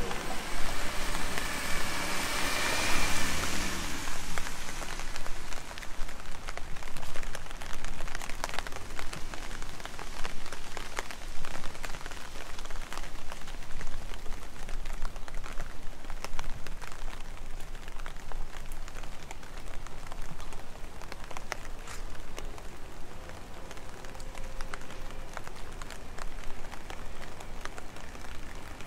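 Steady rain falling on wet streets, with many individual drops ticking sharply close by. A vehicle passes during the first few seconds.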